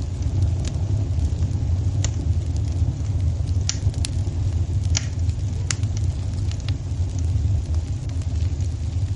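Wood fire burning in a fireplace: a steady low rumble with irregular sharp pops and crackles, roughly one a second.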